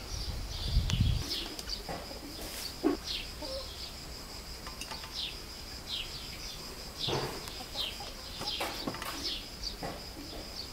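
A small bird calling outdoors, a short falling chirp repeated about once a second over a steady high hum. A few soft knocks come through now and then as apple slices are pushed into glass carboys.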